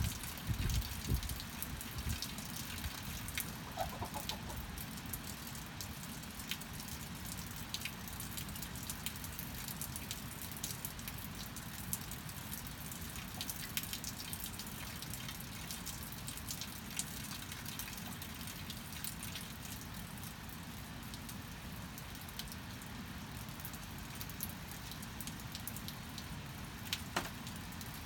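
Steady rain falling, with many separate drops and drips striking close by. A chicken gives a brief cluck about four seconds in.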